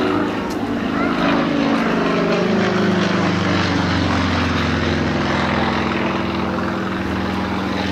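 Propeller airplane engine passing by, its pitch dropping between about one and three seconds in, then holding steady as it flies on.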